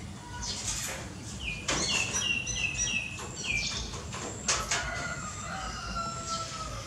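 Birds calling: a quick run of about six short, falling chirps, then a long, slightly falling drawn-out call in the second half. A couple of sharp clicks cut across them.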